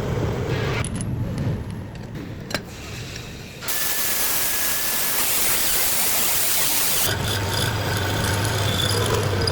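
Metal lathe at work: a steady low motor hum, a sharp click about two and a half seconds in, then a few seconds of loud even hiss-like cutting noise before the low hum returns near the end.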